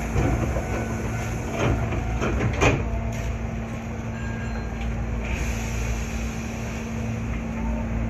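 Hankyu 8300 series commuter train standing at a station, heard from inside the car: a steady electrical hum, with two knocks about two seconds in as the doors close. Around five seconds in the sound changes as the train pulls away.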